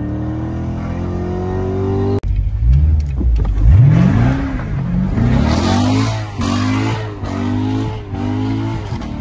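Sombre background music for about two seconds, then a sudden cut to a sports car's engine revving hard. Its pitch climbs and drops again and again, with several quick rises in a row in the second half.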